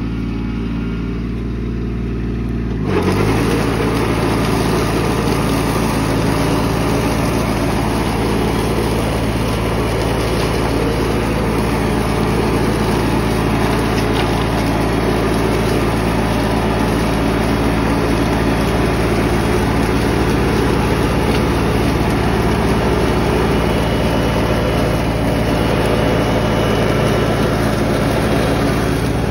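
Diesel tractor engine running at idle, then about three seconds in the throttle is opened and it runs on steadily at a higher, louder speed.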